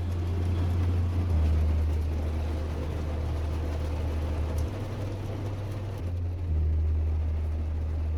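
Steady low rumble and hiss of a car on the road, under deep held bass notes that shift in pitch every couple of seconds.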